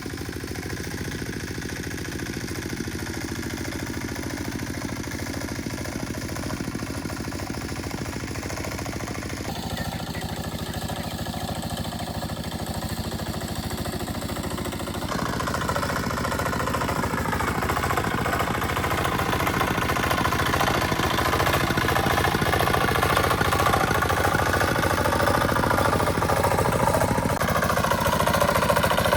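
A small engine running steadily, with a continuous drone. Its sound changes abruptly twice, and it gets louder from about halfway through.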